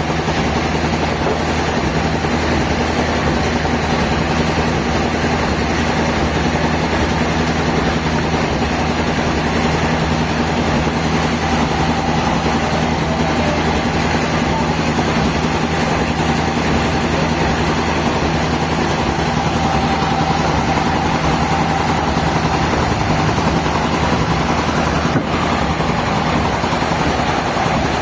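Sawmill machinery running with a steady, even engine-like drone. One brief click sounds near the end.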